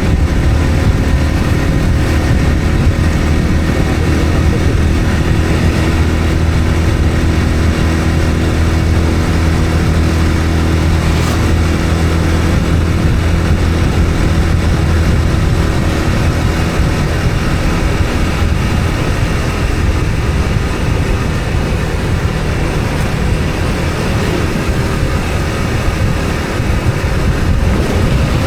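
A road vehicle's engine running steadily while travelling, with a continuous low hum and road noise.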